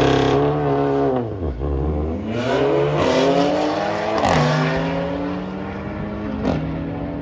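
A car engine drops back to low revs, then accelerates hard with its pitch climbing steadily, shifting up about four seconds in and again near the end.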